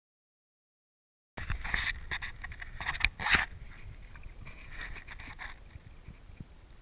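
Silence for over a second, then splashing and knocking noises on a kayak. A run of splashes and knocks is loudest about halfway through, then settles to a lower wash of water.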